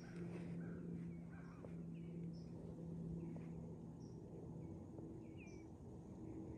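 Faint woodland ambience: scattered short bird chirps over a low steady hum that fades out about two-thirds of the way through.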